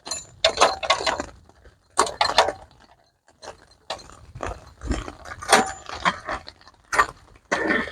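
Irregular metal clicks and rattles of a portable camping gas stove being handled and fitted to its gas canister.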